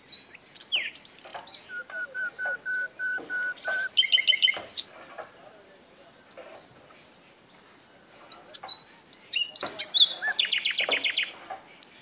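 Wild birds calling: a run of about eight short even notes at one pitch, several sharp down-slurred whistles, and about a second before the end a fast rattling trill. A steady high insect drone runs underneath throughout.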